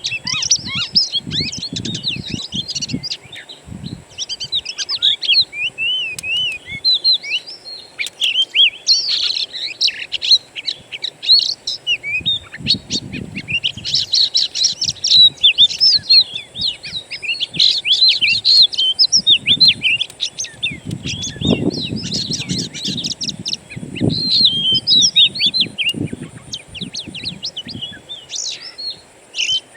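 Wild songbirds chirping and singing in a dense, continuous chorus of quick whistled and twittering notes, with low muffled rumbles now and then.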